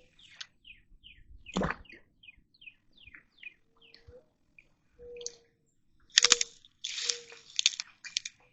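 A songbird sings a quick run of falling chirps, about three a second, through the first few seconds. Water splashes in short bursts, one about a second and a half in and the loudest near the end.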